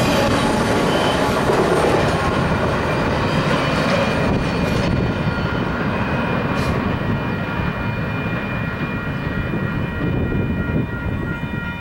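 Freight train of double-stack intermodal well cars rolling past with a steady rumble and rattle of wheels on rail, thinning a little as the last cars clear. From about halfway through, a steady high-pitched ringing rides over it.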